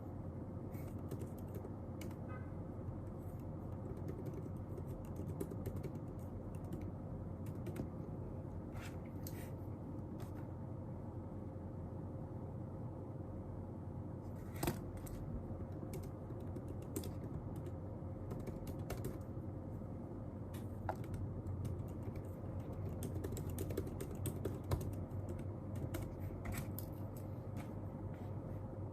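Intermittent typing on a computer keyboard: scattered, irregular key clicks, a little busier near the end, over a steady low room hum.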